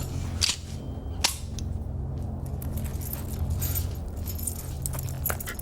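Film fight sound effects: a few sharp hits and clatters, the loudest about half a second and just over a second in, over a steady low hum.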